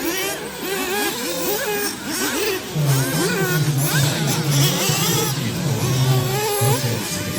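Several 1/8-scale nitro off-road buggy engines revving up and down as the cars race around the track, with many overlapping rising and falling whines. A steadier low engine note holds through the middle.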